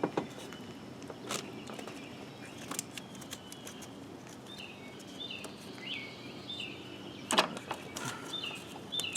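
A few sharp clicks and taps of parts being handled, the loudest about seven seconds in, with a small bird chirping over and over in the background from about halfway through.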